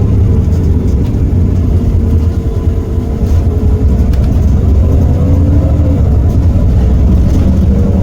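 Iveco Cursor 8 six-cylinder diesel of a Heuliez GX327 city bus running under way with a heavy low rumble, its engine note sagging slightly and then rising again partway through.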